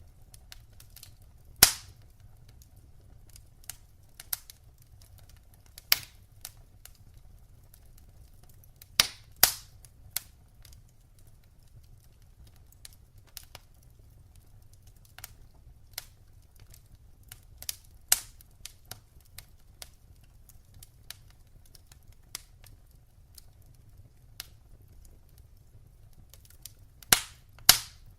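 Wood fire crackling: irregular sharp pops and snaps over a low, faint rumble of burning, with the loudest pops about 1.5 s in, a pair about 9 s in, and another pair near the end.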